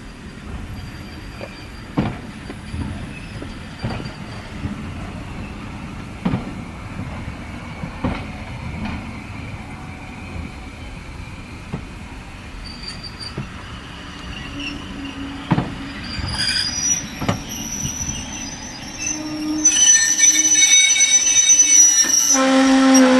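Heritage railway train rolling along the track, its wheels knocking over rail joints every couple of seconds. Near the end the wheels break into a loud, high-pitched squeal of several held tones.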